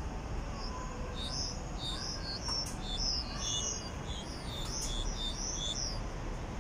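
A small songbird singing a quick run of high, varied chirping notes, starting about a second in and lasting some five seconds.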